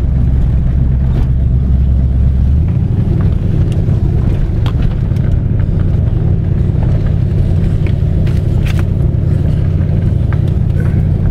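1989 Ford Mustang GT's 5.0 V8 engine running while the car drives, heard from inside the cabin. The engine note steps up in pitch about two and a half seconds in as the revs rise, then holds steady.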